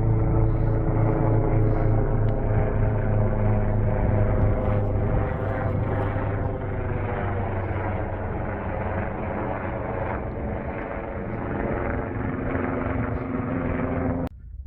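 Aircraft engine passing overhead: a loud, steady drone whose pitch sinks slightly as it goes by, cutting off suddenly near the end.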